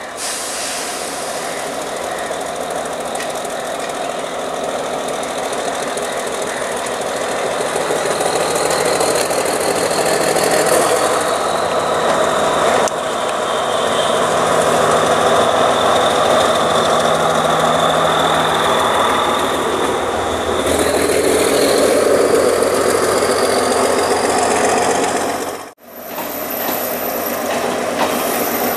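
Sri Lanka Railways diesel multiple unit (power set) running past, its diesel engine humming under load over a rumble of wheels on the rails, growing louder as it draws near, with a faint high whine that drifts in pitch. The sound breaks off for an instant near the end, then a train's engine noise resumes.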